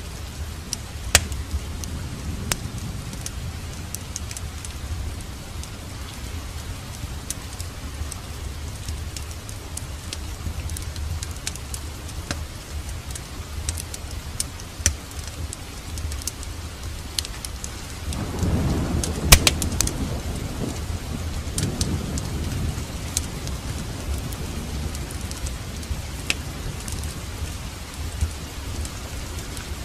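Wood fire crackling with scattered sharp pops over steady rain, and a low rumble of thunder rising about 18 seconds in and fading a few seconds later.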